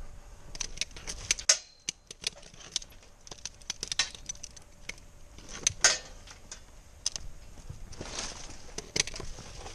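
Pieces of firewood knocking and clattering against one another as they are loaded into a trailer: an uneven run of sharp wooden knocks, a few of them louder.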